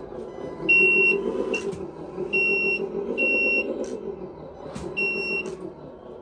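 Synthesized truck engine sound from an RC 1/14 truck's Lesu sound module, played through a small speaker: a steady diesel-style drone that rises a little a couple of times, with about four high half-second reversing beeps over it and a few sharp clicks.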